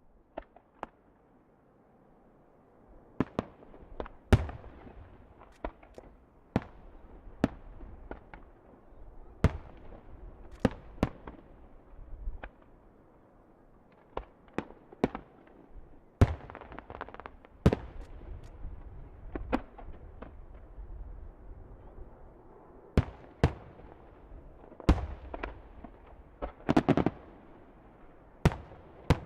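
Fireworks display: shells bursting in an irregular string of sharp bangs, sometimes several within a second, with a low rumble of echoes between them. The first few seconds are quieter, with only a couple of small pops.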